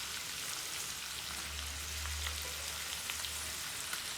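Smoked pork, potato and tomato frying in a pan with freshly added ginger-garlic paste: a steady, even sizzle.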